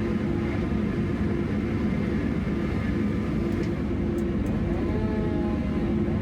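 Chainsaw running steadily at full throttle under load, cutting into a thick honey locust trunk.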